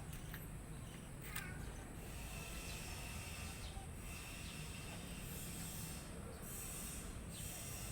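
A few short, high chirps from pet birds over a steady hiss.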